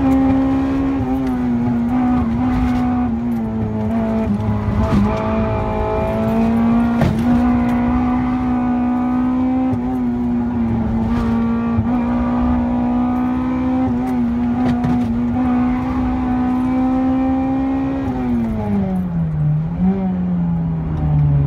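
Honda Integra Type R DC2's 1.8-litre VTEC four-cylinder, decatted with an Invidia N1 silencer, running hard at high revs from inside the cabin, the pitch wavering slightly through the bends. Near the end the revs fall away as the car slows, with a short blip on a downshift.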